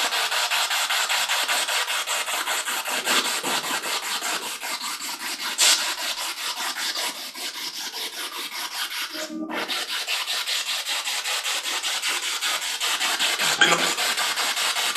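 Spirit box sweeping through radio stations: choppy static pulsing several times a second, briefly cutting out about nine and a half seconds in.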